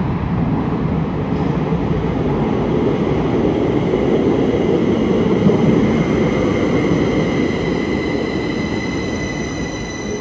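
Electric train on the Uetliberg line running on the track, a steady rumble of wheels on rail that swells to its loudest about halfway through and then eases. A high whine with several tones comes in about six seconds in and holds.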